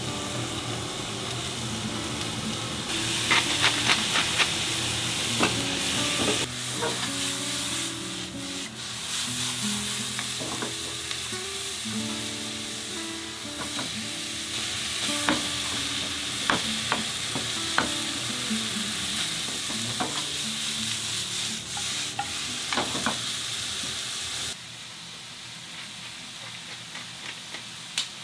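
Chopped onions and minced beef sizzling and frying in a non-stick frying pan over a gas flame, with scattered knocks and scrapes of stirring in the pan. The sizzle drops off noticeably a few seconds before the end.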